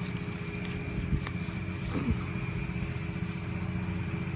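Steady low mechanical hum of a motor running, with a thin steady high tone above it and a couple of soft low thumps about one and two seconds in.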